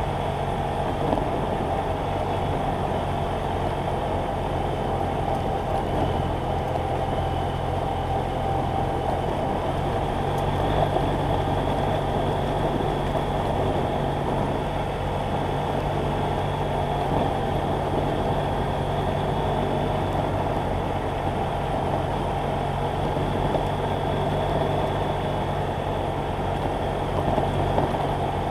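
BMW F800GS Adventure motorcycle's parallel-twin engine running at a steady speed under way, with no revving up or down.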